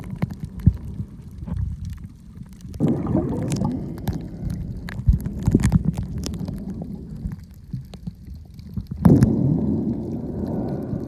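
Water moving around a camera held underwater: a steady low rumble with two louder gurgling surges, one about three seconds in and one about nine seconds in, and light clicks scattered throughout.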